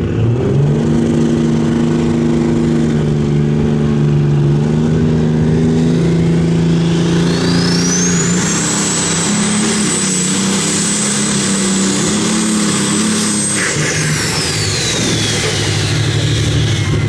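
Competition pulling tractor's engine running hard under load through a pull. About seven seconds in a high whine climbs, holds at a steady pitch, then falls away toward the end as the run winds down.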